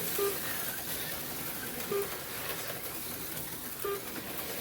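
HO-scale slot cars running laps around the track, a steady hiss of small motors and pickups on the rails. A short tone sounds three times, about every two seconds.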